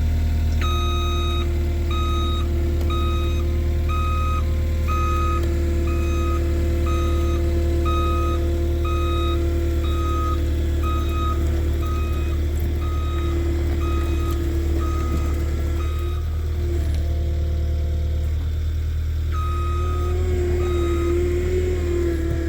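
Skid steer's back-up alarm beeping steadily over its engine running, as it reverses while plowing snow; the beeping stops for a few seconds past the middle, then starts again.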